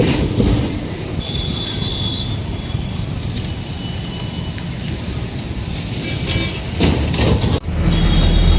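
Train running on the track: a steady rumble with a faint high wheel squeal, and a few sharp clatters about seven seconds in.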